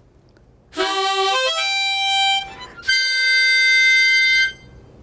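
Harmonica played as a short flourish: a quick run of notes stepping upward, then a held chord that cuts off after about a second and a half.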